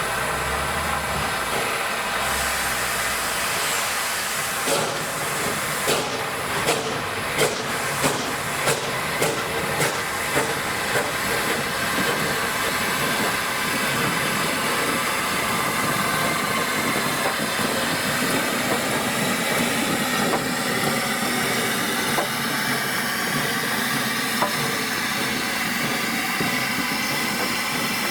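Steam locomotive hissing steadily, with a run of regular beats, about one and a half a second and quickening slightly, in the first half.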